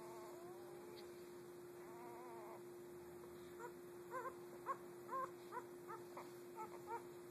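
A week-old puppy whining softly, then squeaking in a quick run of about a dozen short, high-pitched squeals over the last few seconds.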